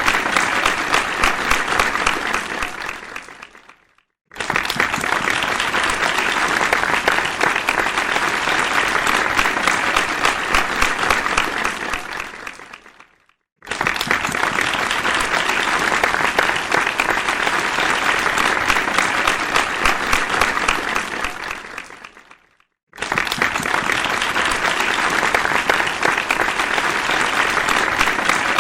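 Audience applause, many hands clapping. It comes in rounds of about nine seconds, each starting suddenly and dying away over two or three seconds, with three short silences between them.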